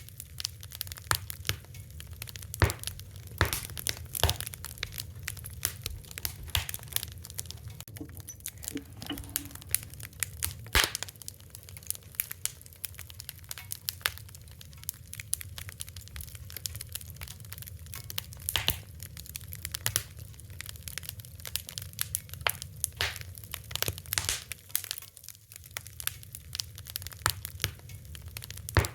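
Wood fire burning, with frequent irregular crackles and pops of varying loudness over a steady low rumble.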